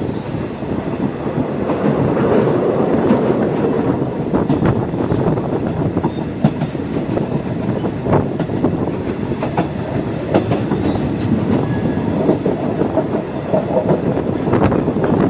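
Passenger train running along the track, heard from on board: a steady rumble with sharp wheel clicks over the rail joints at uneven intervals.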